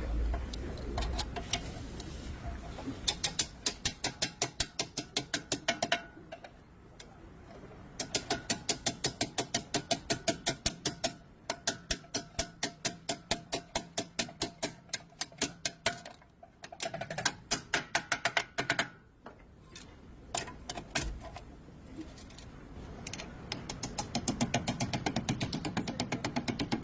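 A hand ratchet wrench clicking rapidly, about five or six clicks a second, in runs of a few seconds with short pauses between them.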